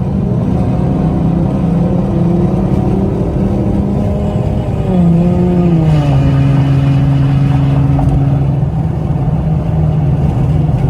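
Car engine running while driving, a steady drone whose pitch wavers and then drops and settles lower about six seconds in.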